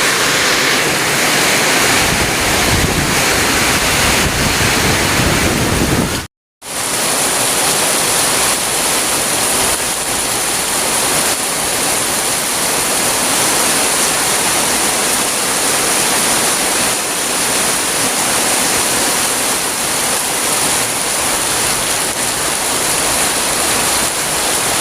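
Heavy tropical downpour: a loud, dense, steady hiss of rain. It cuts out for a split second about six seconds in, then resumes with a brighter, higher hiss.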